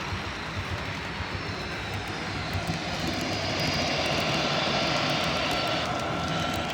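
A model train running on a layout: a steady motor whine over the hum of wheels on the rails, growing louder about three seconds in.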